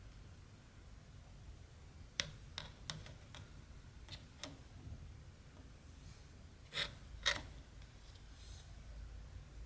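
Small clicks and ticks from handling cross-stitch work with needle and thread: about six light ticks spread over a few seconds, then two sharper clicks about half a second apart.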